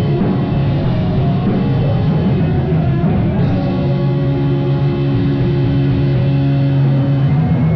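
Live rock band playing loud: distorted guitars and drum kit, with a low chord held from about halfway through.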